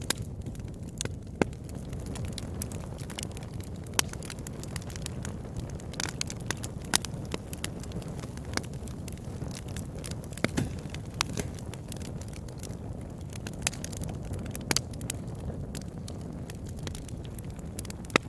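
Campfire burning with a steady low rumble of flames and irregular sharp crackles and pops from the burning wood, a few of them louder.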